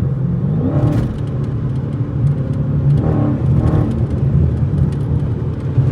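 Straight-piped Dodge Challenger Scat Pack's 6.4-litre HEMI V8 exhaust droning steadily while the car cruises.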